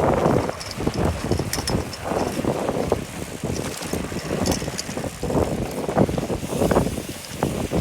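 Wind buffeting the microphone of a bicycle on the move, coming in uneven gusts, with light scattered clicks and rattles from the ride.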